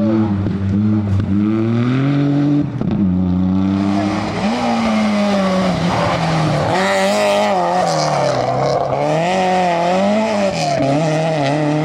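Rally car engine revving hard, its pitch climbing and dropping sharply with gear changes and throttle lifts, then wavering quickly up and down. A hiss of tyre noise joins it about four seconds in.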